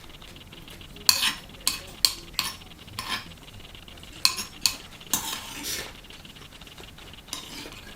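Eating utensils clicking and scraping against an earthenware ttukbaegi pot of cheese ramen, with about seven short sharp clicks spread over a few seconds and a softer stretch of stirring in the middle.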